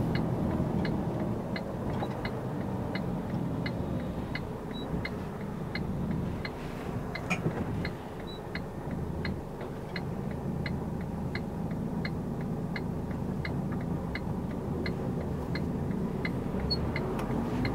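Truck cab interior: the engine runs with a steady low drone while the turn-signal indicator ticks evenly, about three ticks a second.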